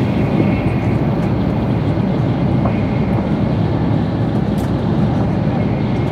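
Tokaido Shinkansen bullet train running at speed, heard inside the passenger cabin: a steady low rumble with a faint higher hiss and a few light ticks.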